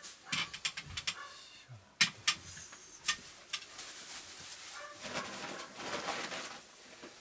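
Handling noises of setting up air-conditioner cleaning gear: a run of sharp clicks and knocks, two loud ones about two seconds in, then rustling from about five seconds.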